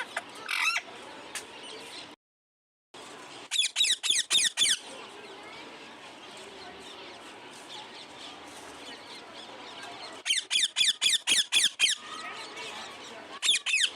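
Parrot screeching in fast runs of short, sharp calls: about half a dozen calls in quick succession, then a longer run of about ten a few seconds later, and a few more near the end.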